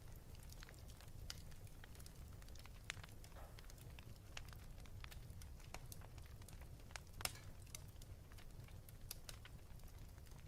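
Wood fire in a fireplace crackling, with frequent small pops and one louder pop about seven seconds in, over a faint low rumble.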